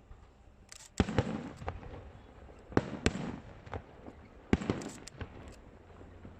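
Aerial fireworks shells bursting: three pairs of loud bangs about a second and a half apart, each followed by a short echo and a few fainter cracks.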